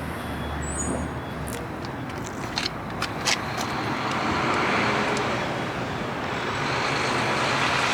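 Road traffic noise: a steady wash of passing vehicles that swells a little in the second half, with a few light clicks.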